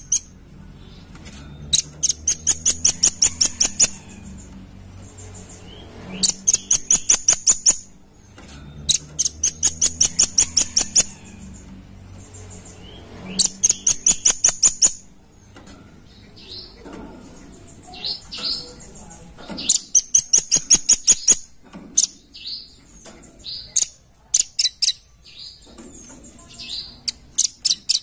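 Velvet-fronted nuthatch calling: about five rapid runs of sharp, high, evenly spaced notes, each lasting about two seconds. Single notes come in between the runs, and in the second half the calls break into shorter, scattered notes. A low steady hum lies underneath.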